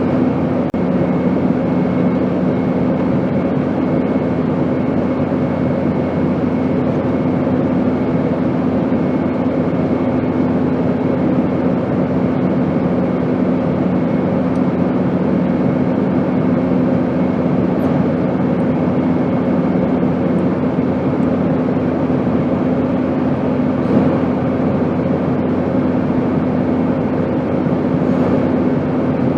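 Airplane in flight, a steady even rushing drone with a constant low hum under it.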